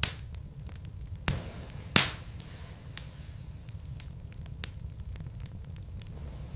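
Logs burning in a fireplace, crackling with many small ticks over a low steady rumble. Three sharp pops come in the first two seconds, the loudest about two seconds in.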